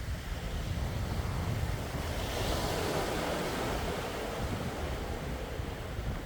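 Sea waves washing onto the shore, one wave swelling and breaking about two seconds in and hissing away, over a steady low rumble of wind on the microphone.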